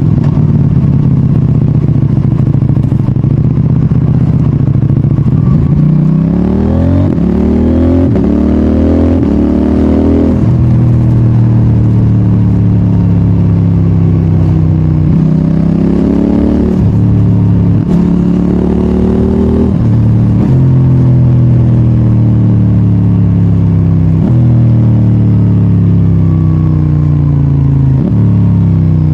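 CFMOTO 800NK Advanced's parallel-twin engine under way, cruising steadily at first. It then pulls up through the gears, the revs climbing and dropping abruptly about four times as quick-shifter upshifts go in. Then it slows on engine braking, with the pitch falling and one sudden jump in revs partway through, like a downshift.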